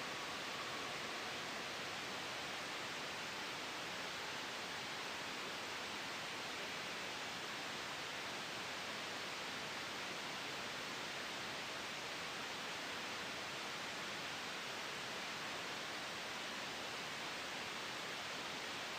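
Steady white noise blended with a gentle wind ambience: an even hiss that does not change in level.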